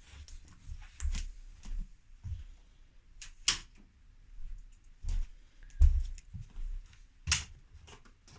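Irregular sharp clicks and dull knocks of hard parts being handled, as an electric fireplace is opened up to check its burnt-out lamp.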